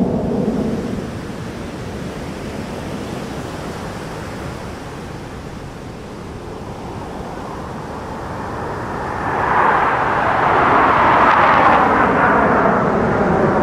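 Fighter jet engine roar, quieter at first, then swelling loudly about nine seconds in as the jet passes close.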